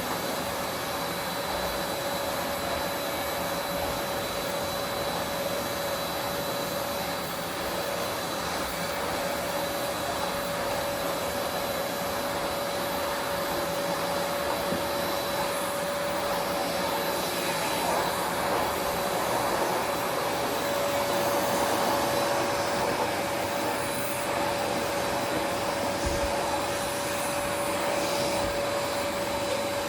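A vacuum cleaner running steadily with a constant whining tone, its sound swelling a little about two thirds of the way through.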